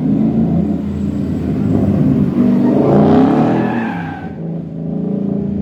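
Rally car engine revving hard, rising to its loudest about halfway through and then easing off, as the car slides through a drift with tyre noise.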